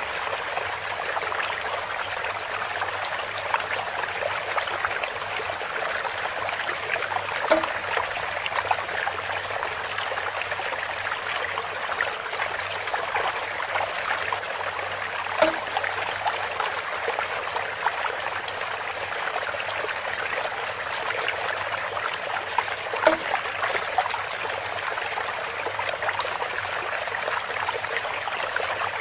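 Water trickling and splashing steadily through a bamboo water feature. A short knock sounds about every eight seconds, three times.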